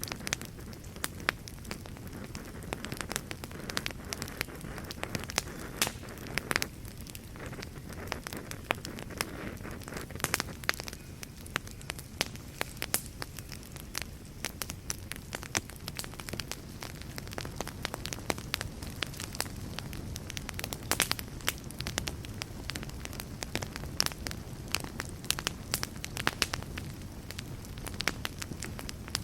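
Wood fire burning in a fireplace: a steady low rush of flames with frequent irregular crackles and pops.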